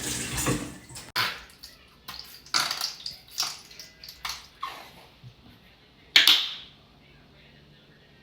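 Water running from a kitchen tap, cut off about a second in, followed by a series of short clatters and splashes, the loudest about six seconds in.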